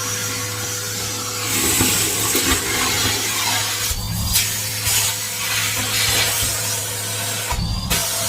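Henry vacuum cleaner running with a steady hum, its nozzle rubbing and scraping irregularly over a surface.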